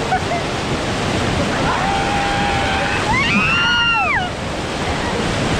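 Whitewater rapids rushing loudly around a raft. About two seconds in, a person lets out a long whoop that holds one pitch, then rises and falls away.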